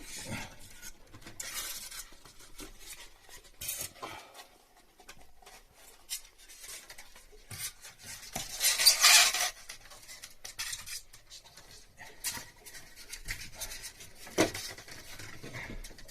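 Light clinks, taps and rustling of tools and parts being handled during air-conditioner piping work, with a louder rustling hiss about nine seconds in and a sharp knock near the end.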